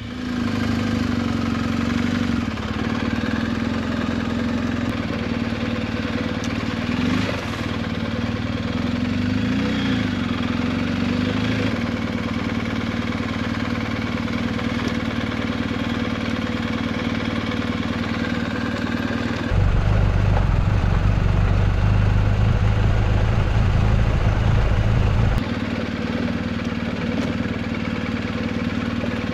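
BMW R 1250 GS Adventure's boxer twin engine running steadily at low speed on a rocky gravel trail. About twenty seconds in, a louder low rumble sets in for about six seconds, then stops suddenly.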